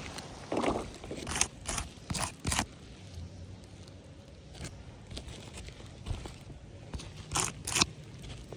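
Scattered footsteps scraping and crunching on a roof surface, a few irregular steps with a pause in the middle and two close steps near the end.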